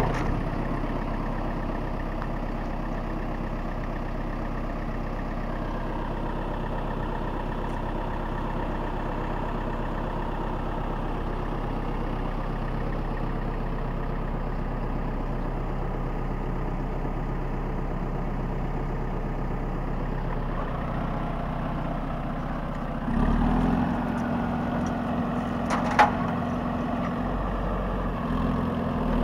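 Diesel engine of an LKT 81 forestry skidder running steadily at idle. Near the end it grows louder and deeper, and there is one sharp click.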